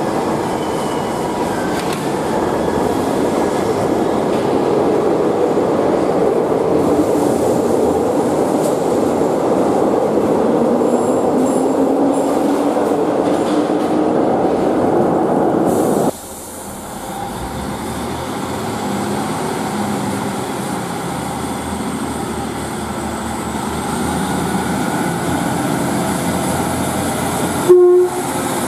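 Glasgow Subway train running through the platform, its motor whine rising in pitch. This cuts abruptly to a pair of Class 156 diesel multiple units pulling away, with a short loud horn blast near the end.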